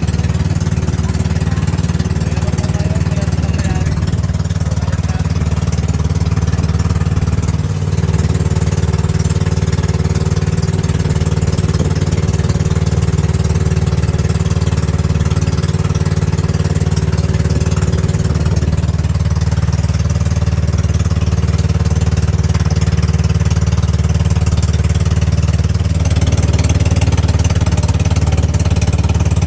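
Boat engine running steadily with a loud, even low chugging; its pitch shifts slightly a few times.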